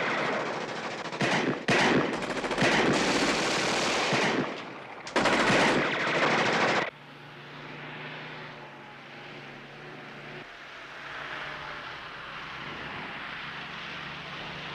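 Several long bursts of automatic gunfire with short breaks between them, cutting off sharply about seven seconds in. A fainter steady hum follows.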